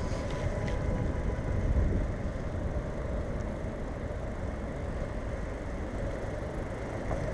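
Steady low rumble of a bicycle being ridden, with wind on the microphone and tyres rolling on pavement.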